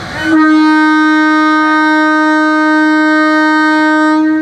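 Train horn sounding one long, steady blast of about four seconds on a single loud pitch.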